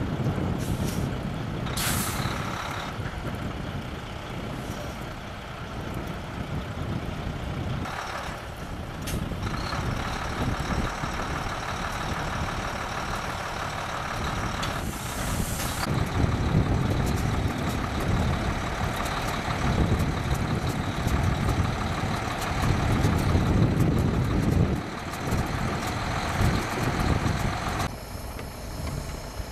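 Road traffic with trucks running through snow, a steady rumble and tyre noise, broken by a few short hissing bursts.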